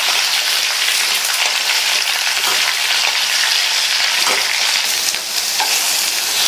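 Cut flat beans (avarakkai) sizzling in hot sesame oil in a stainless steel kadhai while being stirred with a wooden spoon: a steady frying hiss.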